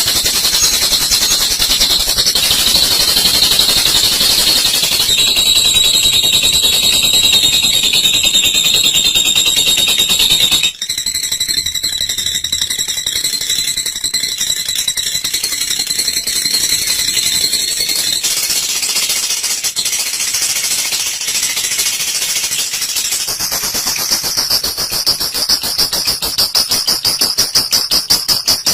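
Olive lovebird giving its long 'ngekek' call: a continuous, high-pitched, very rapid chattering trill. It breaks off abruptly about 11 seconds in, carries on, and becomes a more distinctly pulsing trill near the end.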